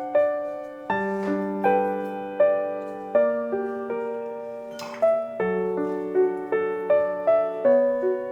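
Background music: a gentle solo piano piece with notes and chords struck about every half second, each decaying.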